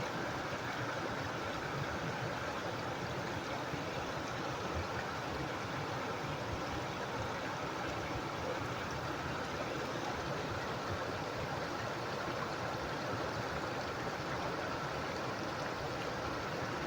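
Running water of a stream, a steady unbroken rush.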